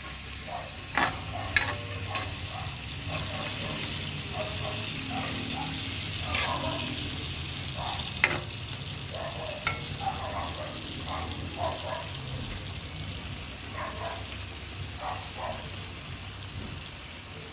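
Food frying in hot oil with a steady sizzle, while a utensil clicks sharply against the pan a handful of times.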